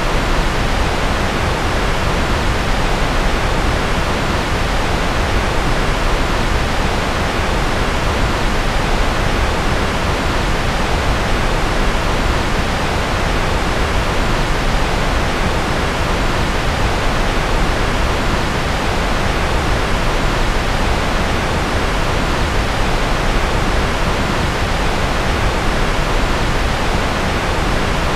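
Steady generated noise, an even hiss that never changes, fuller in the low and middle range than in the highs.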